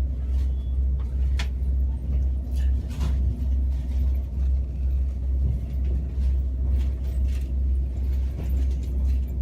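Train running, a steady low rumble with a few faint clicks.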